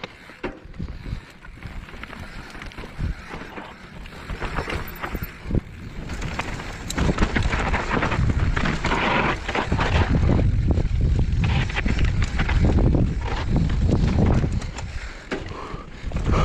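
Mountain bike riding down a rough trail: a steady run of rattles and knocks over the ground, with wind buffeting the microphone. It grows louder about seven seconds in.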